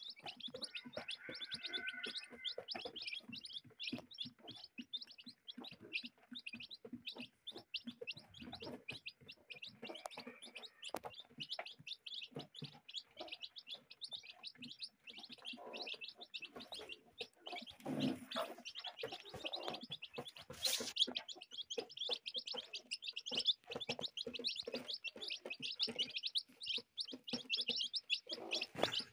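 Many small birds chirping at once, a dense unbroken chatter of short high notes, with scattered soft clicks beneath.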